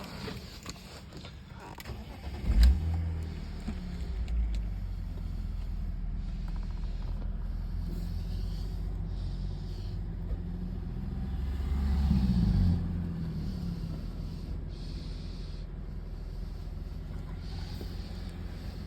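BMW car engine starting about two and a half seconds in, then idling steadily, with a brief rise in revs about two-thirds of the way through.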